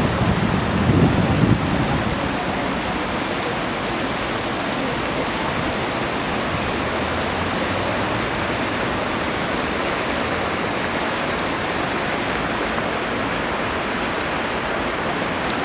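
Steady rushing noise of an aircraft during landing, with a heavier low rumble in the first second or so that then settles into an even roar of engines and airflow.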